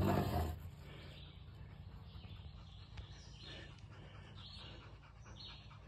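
Faint woodland background with soft, short bird calls repeating about once a second, over a low steady hum.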